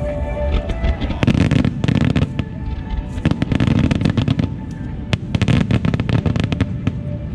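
Starmine fireworks barrage: dense volleys of shell bursts and crackling that come in three waves, with music playing underneath.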